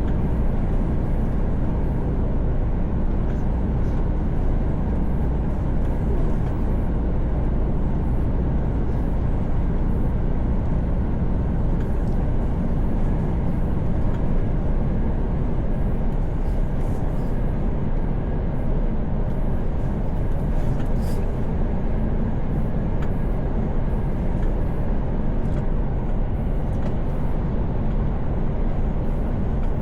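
Mercedes-Benz Actros truck driving at highway speed, heard from inside the cab: a steady low engine drone mixed with road and tyre noise.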